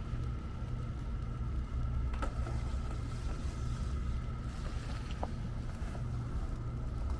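Downtown street ambience: a steady low rumble with a constant high hum and a few soft clicks.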